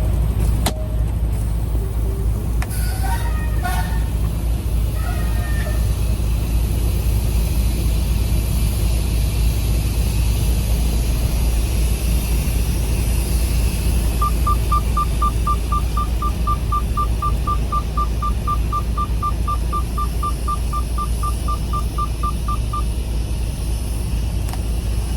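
A semi truck's diesel engine runs steadily. About halfway through, a rapid electronic beeping of roughly five even beeps a second sounds for about eight seconds, then stops.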